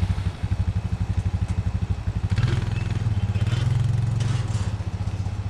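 A small engine starting up abruptly and running with a steady, rapid low pulsing beat, with some clatter a couple of seconds in.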